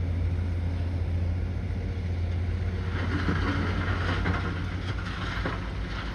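Bulldozer's diesel engine running with a steady low drone. About halfway through there is a couple of seconds of scraping and clanking over it.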